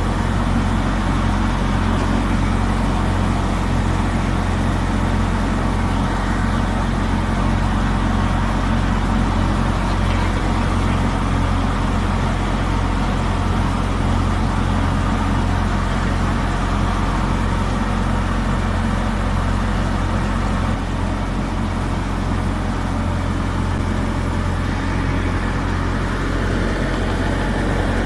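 Tractor engine running steadily at a constant speed, driving a millet threshing machine, with an even low hum and machinery noise throughout.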